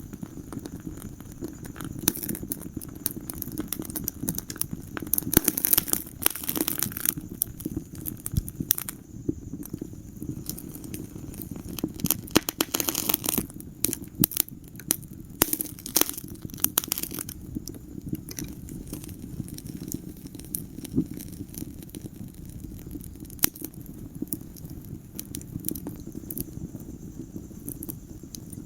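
Wood fire burning in a fireplace: irregular crackles and sharp pops over a steady low rumble of the flames, with busier runs of crackling a few seconds in and again near the middle.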